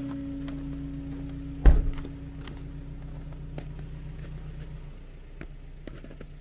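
A car engine idling with a steady low hum. There is one heavy thump about two seconds in, and light clicks and knocks throughout.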